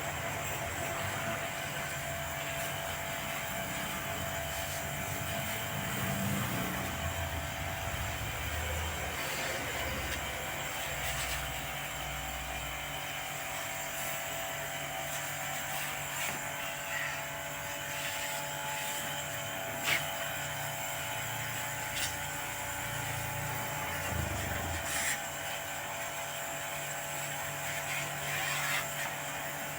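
A steady machine hum, with a few sharp clicks in the second half.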